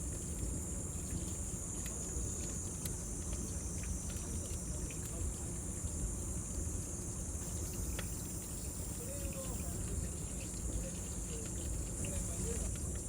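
Cicadas droning steadily in a high, even band over the low rumble of a burning bonfire, with scattered small crackles and pops from the fire.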